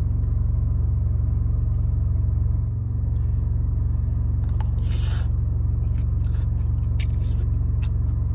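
Steady low rumble of an idling truck engine, with a few faint clicks and a short hissy noise about five seconds in.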